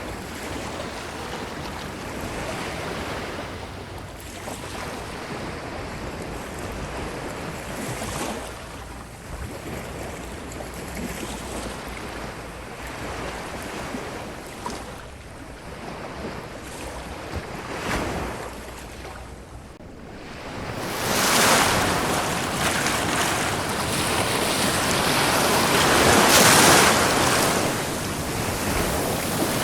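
Ocean waves washing onto a beach in a continuous wash. About two-thirds of the way through, a bigger wave rushes in and breaks louder, then eases off before the next one swells.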